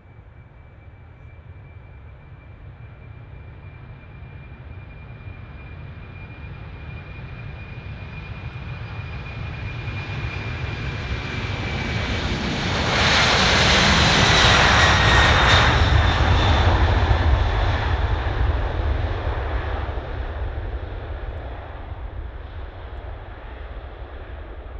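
Boeing 747 jet engines as the airliner passes close by: the sound swells steadily to its loudest a little past the middle, then fades, with a high whine that slides down in pitch as it goes past.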